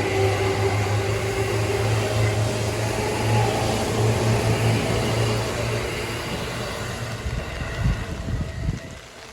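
Seibu Shinjuku Line electric train running past at a level crossing, a steady low hum with rail noise. It fades over the last few seconds, with a few low thumps near the end.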